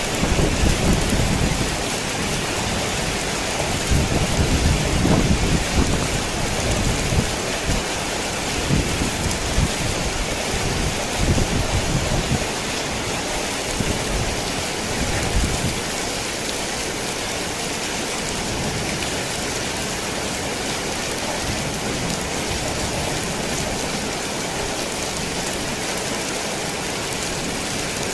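Heavy rain falling on a tin roof, steady throughout, with thunder rumbling low through the first half and dying away a little past the middle.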